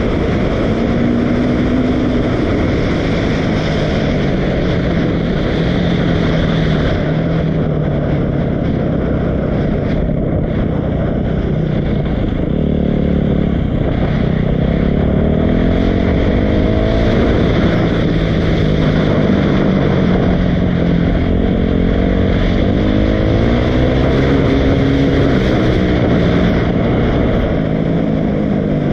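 Dirt bike engine running loudly, its pitch rising and falling again and again as the throttle is opened and eased off.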